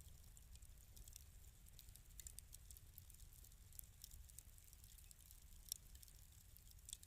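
Wood fire crackling softly in a fireplace: scattered small pops and snaps, one a little sharper, over a steady low rumble.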